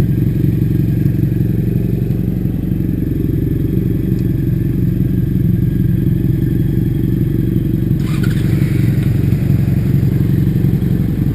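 Steady low rumble of a bike on the move, heard from on board, with a short higher rattle about eight seconds in.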